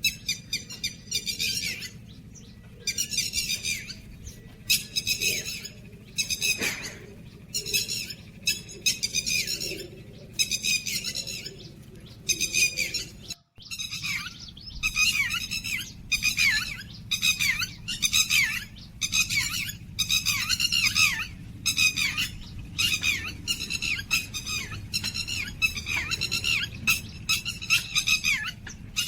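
Small birds chirping and calling in quick succession: short bursts of rapid, high notes, roughly one burst a second, with a brief break about halfway through.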